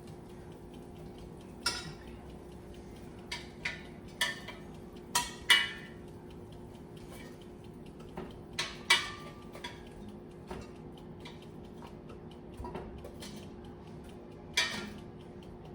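Kitchen clatter: metal utensils, pans and dishes clinking and knocking against each other as cooked wings are handled. About a dozen separate knocks come at irregular intervals, the loudest about five and a half and nine seconds in.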